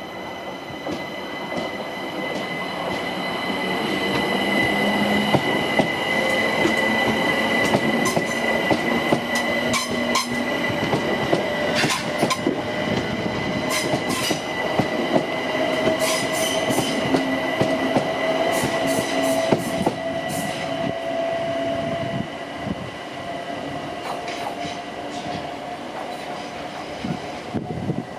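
A train running past with a steady high wheel squeal, a slowly rising whine underneath, and sharp clicks of wheels over rail joints. It grows louder over the first few seconds and stays loud.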